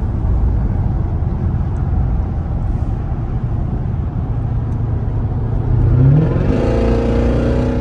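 Steady low road and engine rumble from a car on the move. About six seconds in, an engine revs up hard with a rising pitch and grows louder.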